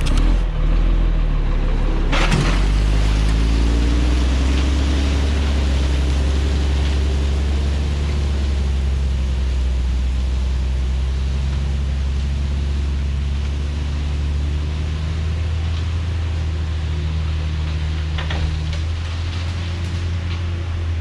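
A vehicle's engine pulling steadily under load as it climbs a slick, freshly graveled slope, its pitch rising a few seconds in, with a sharp knock about two seconds in and another near the end.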